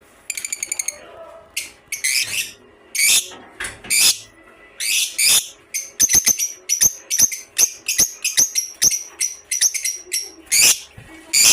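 Kingfishers calling: a fast rattling trill of about a dozen short notes at the start, then a long run of loud, harsh, high-pitched calls, roughly two a second.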